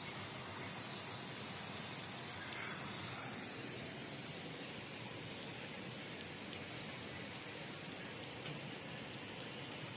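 Steady hiss of steam escaping from a pressure cooker on a wood fire, with two faint clicks about six seconds in.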